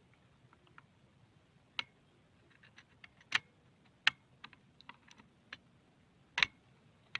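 A run of irregular sharp clicks and taps, a few of them louder, like small hard objects knocking together.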